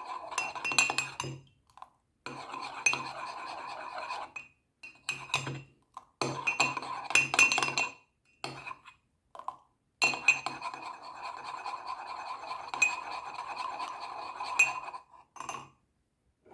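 A spoon stirring Horlicks powder into hot milk in a pan, clinking rapidly against the sides in several spells with short pauses.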